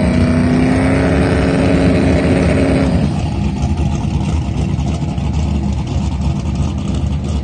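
Boosted Mustang drag car's engine held at high, steady revs with tyre-spin noise for about three seconds, the end of a burnout, then dropping abruptly to a lumpy, low idle as the car rolls forward.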